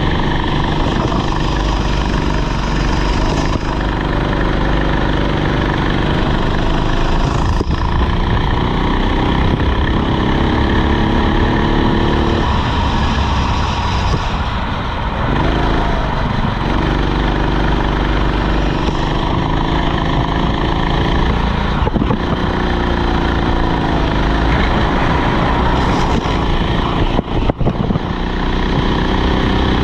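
Rental kart engine running under throttle, its pitch repeatedly rising and falling, with a clear drop-off about halfway through before it climbs again.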